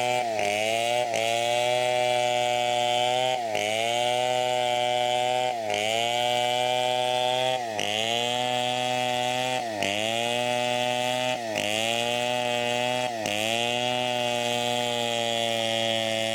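Chainsaw running at high speed through teak. About every two seconds its pitch dips briefly as the saw bogs under load, then climbs back.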